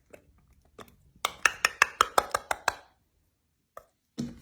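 Can of green chilies being emptied into a baking dish: a quick run of about ten sharp metallic taps with a slight ring, roughly six a second, as the chilies are knocked out of the can, then a single knock near the end.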